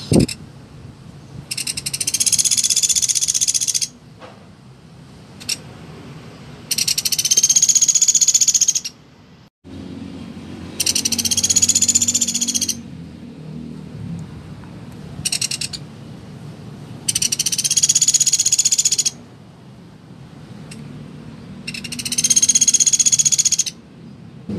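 Pelatuk beras, a small woodpecker, calling five times: fast, buzzy rattling trills about two seconds long, each rising slightly and falling away, roughly every five seconds, with a few short sharp single notes between them.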